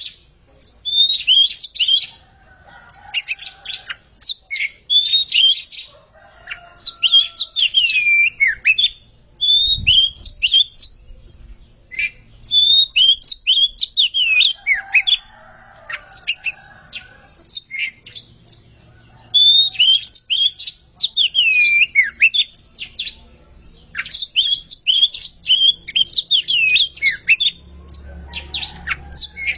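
A pair of Oriental magpie-robins singing against each other in rapid, varied phrases of clear whistles and sweeping notes, coming in bursts with short pauses between them.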